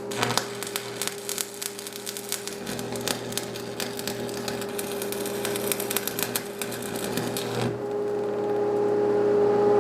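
Electric arc welding crackling and spitting for nearly eight seconds, then stopping suddenly, over the steady hum of the welding machine. The weld blows right through the metal.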